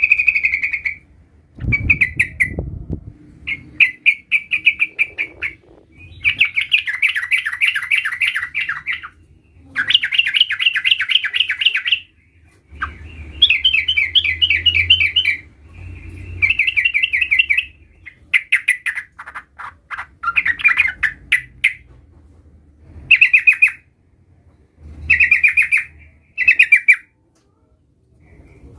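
Yellow-vented bulbul (trucukan) singing: repeated phrases of fast, rolling chattering notes, each lasting from half a second to about three seconds, with short pauses between.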